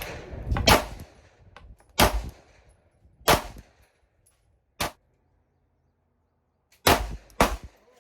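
A 9mm semi-automatic pistol fired six times at an unhurried, uneven pace, each shot a sharp crack with a short ring-off, and a pause of about two seconds between the fourth and fifth shots.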